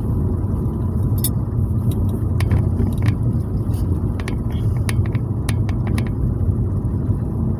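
Road noise inside a moving car: a steady low rumble, with scattered faint clicks and ticks.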